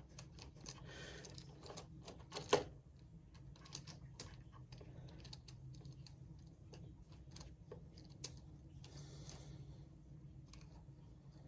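Light, irregular clicking and tapping of small plastic model railway wagons being handled and set on the track, with one sharper knock about two and a half seconds in, over a faint steady hum.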